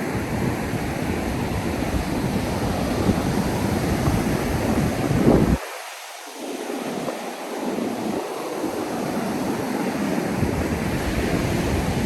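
Ocean surf washing onto the beach, with wind buffeting the microphone in a deep rumble that cuts out abruptly about halfway through and then returns in gusts.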